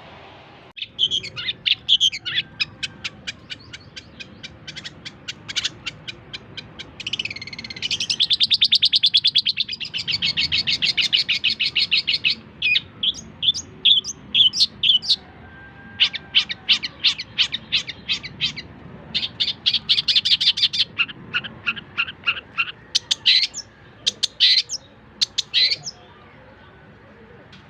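Long-tailed shrike (cendet) singing: fast series of sharp repeated notes and rapid trills in bursts separated by short pauses, with the loudest, most rapid trill in the middle. The song stops shortly before the end.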